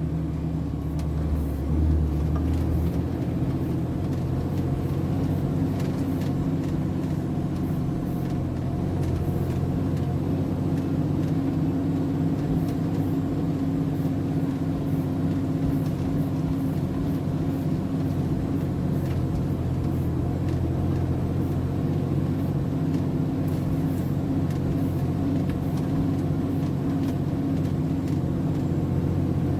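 Heavy truck's diesel engine running steadily, heard from the MAN TGS 33.480 lorry, with a deep low rumble that drops away about three seconds in.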